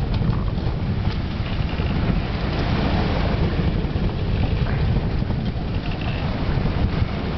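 Strong gusting wind buffeting the microphone: a loud, unbroken low pummelling with a hiss of wind noise above it.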